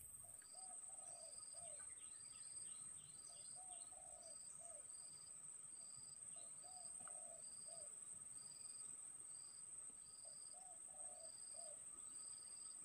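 Faint outdoor ambience of insects trilling steadily, with a regular chirp about one and a half times a second. Over it, a bird gives low calls in short phrases of about four notes, every few seconds.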